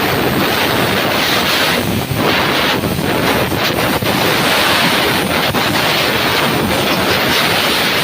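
A high-pressure spray hisses steadily onto a running motorcycle's chain, with the engine turning it underneath. The spray breaks off briefly about two seconds in and again at four.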